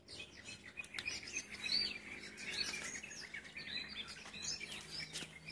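Several small birds chirping, with many short, overlapping calls.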